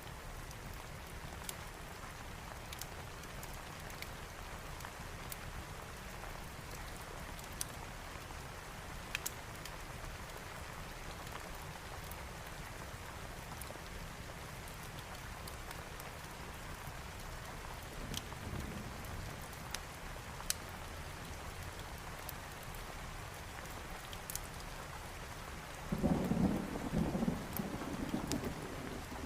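Steady heavy rain, with scattered sharp crackles. A faint low rumble of thunder about two-thirds of the way through, then a louder rolling thunder rumble near the end.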